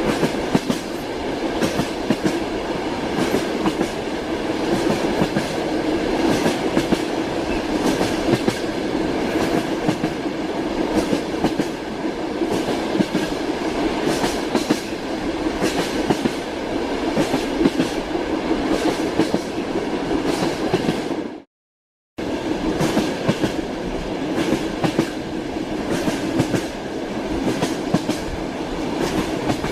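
Train wheels clattering over rail joints, heard from inside a moving railway carriage: a steady rumble with a continual clickety-clack of wheel strikes. About two-thirds of the way through, the sound cuts out completely for under a second, then resumes.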